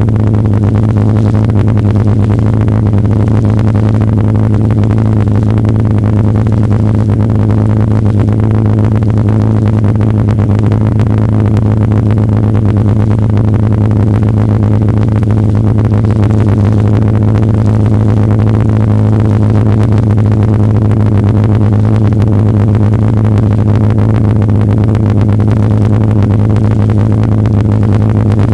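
Polaris snowmobile engine running at a steady speed, a loud, constant drone that holds one pitch without revving up or down.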